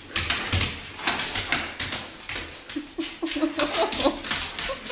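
Excited dog whining during a reunion: a run of short, high cries in the second half, some rising in pitch, over rustling and tapping noises from the handling.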